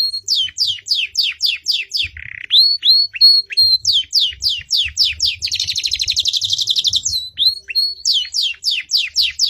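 Songbirds singing, from a kapas tembak and domestic canary song recording: runs of quick descending whistled notes, about four a second, broken by short held whistles. Around the middle comes a long, rapid rolling trill.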